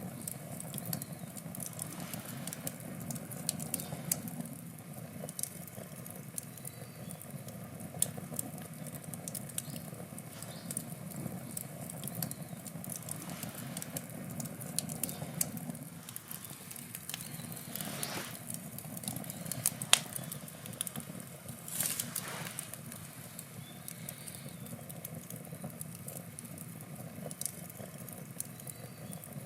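Wood campfire crackling, with irregular small pops over a steady low background of the burning fire. One sharper pop stands out about twenty seconds in, and there are a couple of brief hisses.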